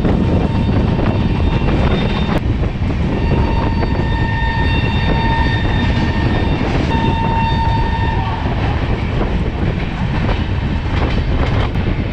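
Indian Railways passenger train running through a station, heard from an open coach doorway: a steady rumble with wheel clatter on the rails. About three seconds in, a train horn sounds: one long blast of about three seconds, then a shorter second blast just after it.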